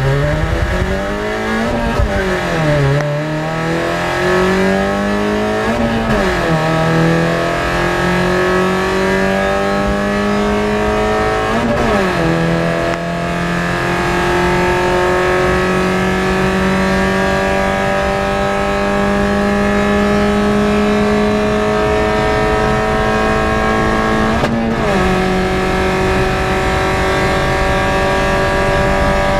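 Toyota Yaris with a 1.5-litre 1NZ-FE four-cylinder engine and manual gearbox accelerating at full throttle from a standstill toward 200 km/h. The engine pitch climbs through each gear and drops sharply at four upshifts, and each gear pulls up more slowly than the last.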